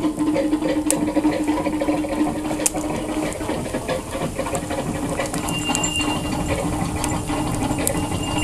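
Wood fire crackling in a fireplace, with scattered sharp pops over a continuous crackle. A steady low hum fades about three seconds in.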